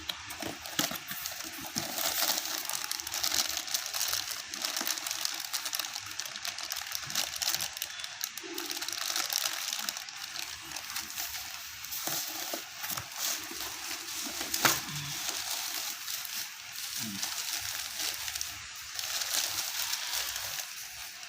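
Packaging being handled and rustled during an unboxing, with scattered light clicks and one sharper click or knock about midway.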